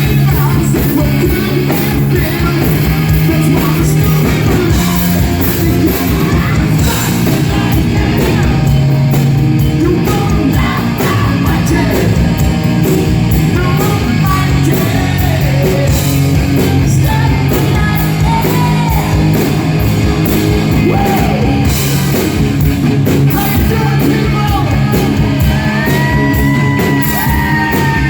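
Hard rock band playing live: distorted electric guitars, bass and drums with a male singer belting over them. A long held note, sung or bent on guitar, comes near the end.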